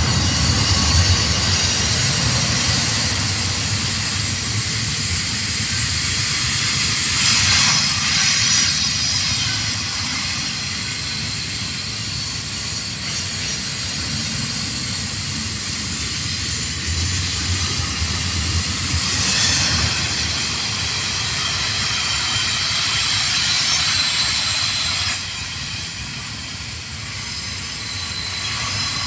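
Double-stack container train's cars rolling past close by: a steady rumble of steel wheels on rail with high wheel squeal over it, swelling twice.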